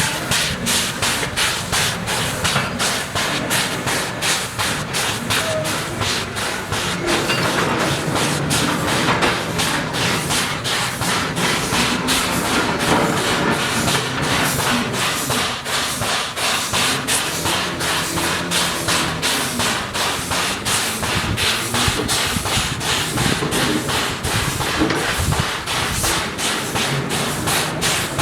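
JS-class 2-8-2 steam locomotive working hard, its exhaust beating in a steady, even rhythm over a constant hiss of steam.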